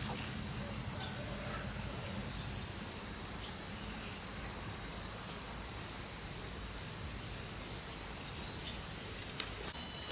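Cricket trilling in one continuous high-pitched tone, with no breaks, growing louder shortly before the end.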